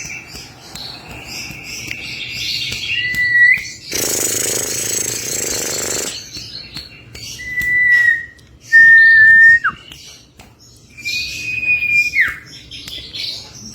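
Common iora (sirtu/cipow) singing: long, drawn-out whistles, several ending in a sharp downward slur. A loud harsh noise burst lasts about two seconds, starting about four seconds in.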